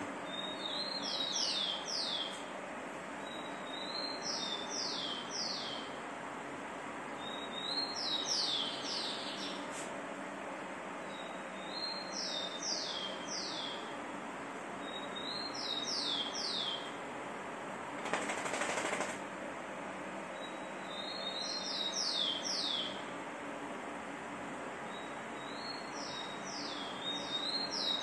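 A small bird calling over and over, each call a quick run of three to five high, falling chirps, repeated about every four seconds over a steady hiss. A short burst of noise comes about eighteen seconds in.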